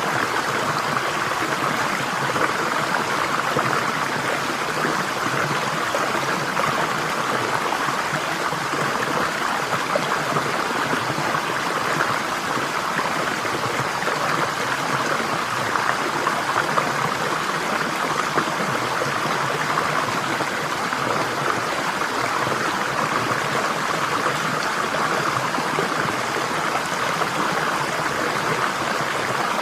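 Steady flowing water, a stream running without a break.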